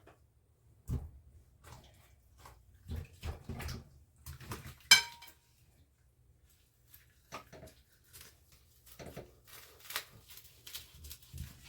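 Kitchen knife cutting and chopping through a partly frozen raw chicken on a cutting board: scattered knocks and clicks, with one sharp, ringing clack about five seconds in, over a low steady hum. The knife is dull and the meat still icy.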